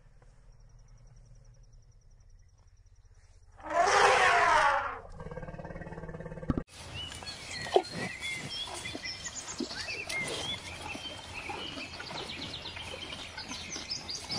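African elephant trumpeting once, loud and about a second long, after a few quiet seconds. After that comes outdoor background with many birds chirping and scattered knocks.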